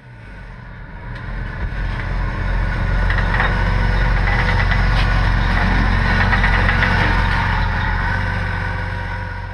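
Engine of a lifted off-road 4x4 running steadily at low revs as it drives down a car transporter's steel ramps. The sound swells up over the first few seconds and sinks again near the end.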